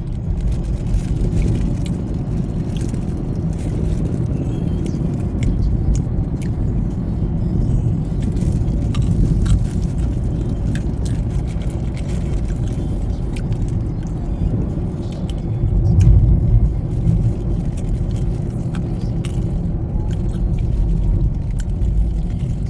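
Steady low road and engine rumble from inside a car's cabin while it is driven, swelling briefly about sixteen seconds in.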